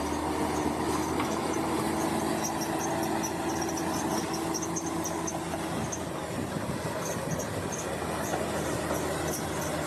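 Crawler bulldozer's diesel engine running steadily, with a steady whine through the first half and short high squeaks of the steel tracks repeating throughout.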